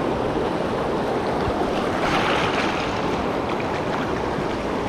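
Steady rushing of river water flowing over rocks, a continuous even wash that briefly grows hissier about two seconds in.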